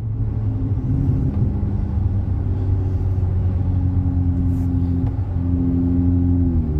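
Car exhaust through MagnaFlow Magnapack mufflers, a steady low drone while driving; the engine note shifts pitch a few times and falls near the end.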